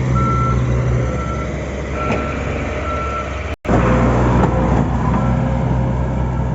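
Diesel engine of a JCB 3DX backhoe loader running steadily, with a reversing alarm beeping at one pitch about once a second. The audio drops out for a split second just past halfway.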